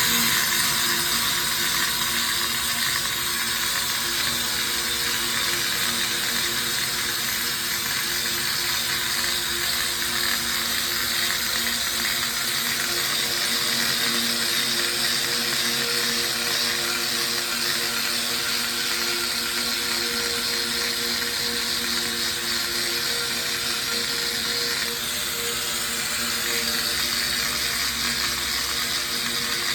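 A tire-repair power tool running steadily with a fast mechanical rattle, dipping briefly near the end.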